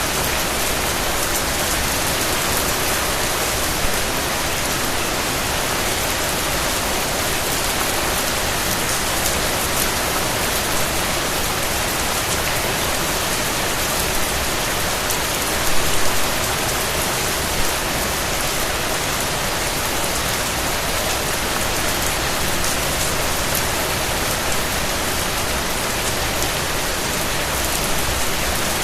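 Steady rain falling on a surface, an even hiss of many drops, with a few brief louder patters around halfway through.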